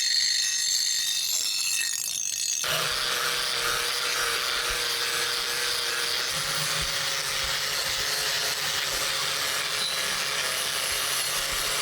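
Steel edge of a leaf-spring cleaver being ground on a powered sharpening wheel: a steady grinding hiss over a motor hum, the sound changing abruptly about two and a half seconds in.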